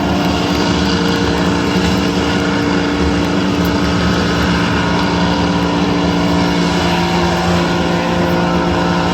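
Vehicle engine held at high, steady revs during a burnout: a loud, even drone at one pitch that cuts back right at the end.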